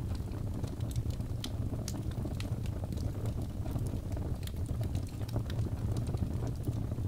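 Birch log fire crackling in a fireplace: a steady low rumble of flame with many scattered sharp pops and snaps.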